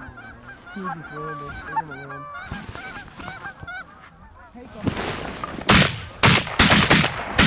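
A flock of geese honking, many short overlapping calls, then a rapid volley of about half a dozen shotgun shots in the last two seconds as the hunters open fire on the incoming birds.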